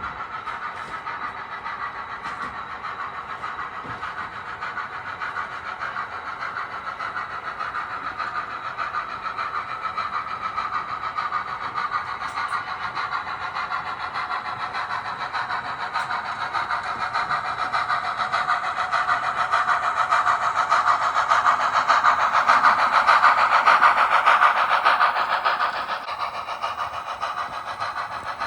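Model train running along the layout track, a steady motor hum and wheel clatter that grows louder as it comes closer, is loudest about twenty-three seconds in, and drops off suddenly a few seconds later.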